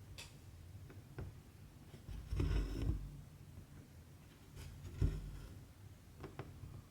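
Cross-stitch needle and cotton thread being worked through the fabric: a short scratchy pull near the start, small taps, a longer rustle about two and a half seconds in, and a soft thump about five seconds in.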